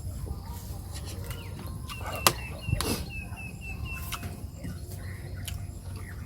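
A bird giving a quick run of about seven short, high chirps, with a sharp click about two seconds in, over a steady low rumble.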